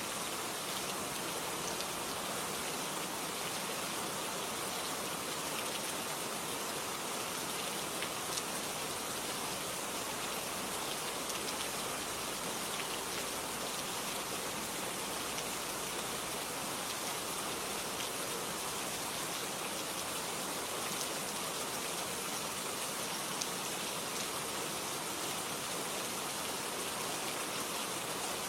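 Steady rain falling, an even hiss with the patter of scattered drops.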